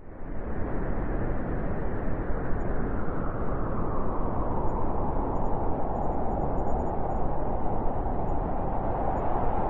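Blizzard wind blowing hard and steadily, a dense rushing noise that starts abruptly and grows a stronger, higher-pitched howl in its second half.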